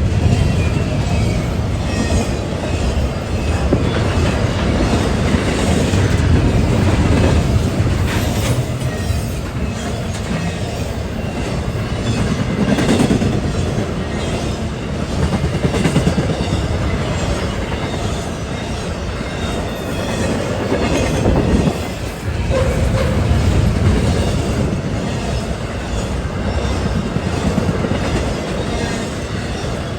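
CSX autorack freight train rolling past close by: a steady heavy rumble of the cars with the clickety-clack of wheels over rail joints and occasional clanks.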